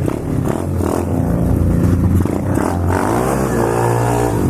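Pit bike engine revving under throttle while being ridden, loud in the enclosed court; its pitch climbs about three seconds in and then holds high.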